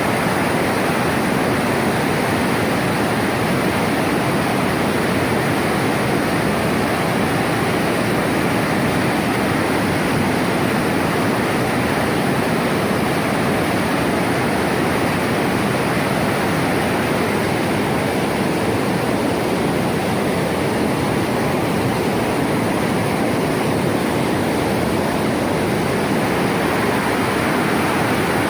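Floodwater rushing in a steady, loud roar of running water.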